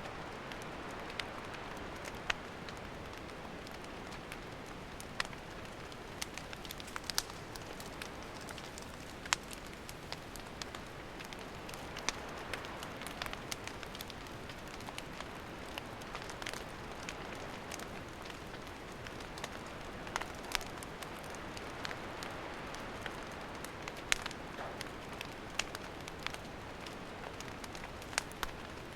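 Wood campfire burning: a steady soft hiss with sharp crackles and pops from the burning wood scattered throughout, a few of them louder.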